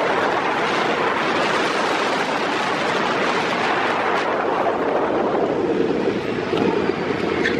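Several old demolition-derby cars' engines running on the drag strip, heard as a loud, steady wash of noise mixed with wind on the microphone.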